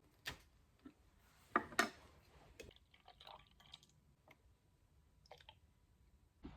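Scattered faint clicks and knocks, irregular, with two louder ones about a second and a half in.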